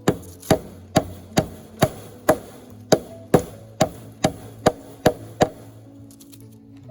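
About a dozen sharp knocks at a steady pace of a bit over two a second, stopping about five and a half seconds in, over steady background music.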